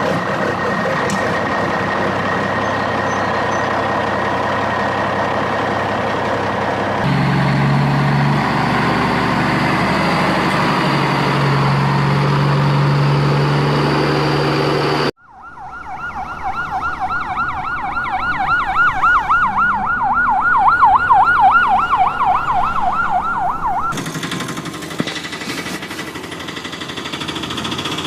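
A siren warbling rapidly up and down, about four times a second, for roughly nine seconds. It starts abruptly at a cut about halfway through. Before it and after it comes the steady running of an engine or motor.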